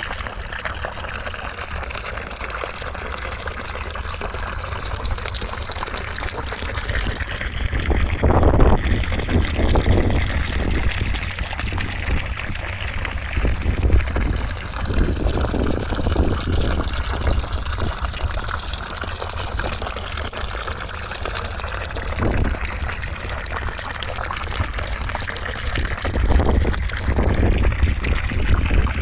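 Steady white noise with a rushing, water-like hiss, its tone slowly shifting, with a few brief louder swells.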